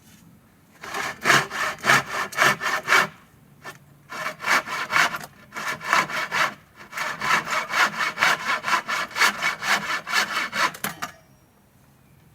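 Hand saw cutting through wood in quick, even back-and-forth strokes, in three runs with brief pauses between them, stopping about 11 seconds in.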